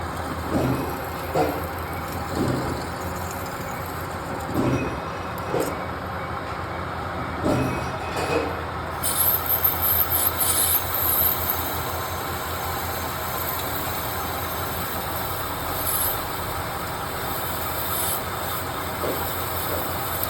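Lathe machining brass bar stock: the machine runs with a steady hum. Several short knocks come in the first half, then a high, scratchy squeal of the tool cutting the brass sets in about nine seconds in and comes again briefly later.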